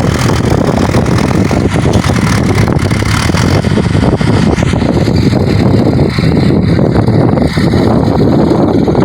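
Tractor engine running loud and steady.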